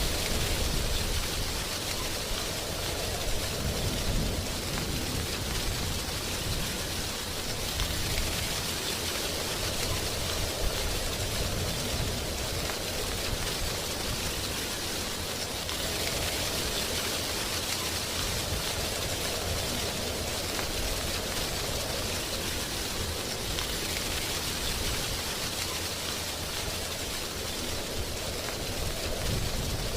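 Wind blowing through a tree's drying leaves, a steady rustle that swells and eases in slow gusts every several seconds.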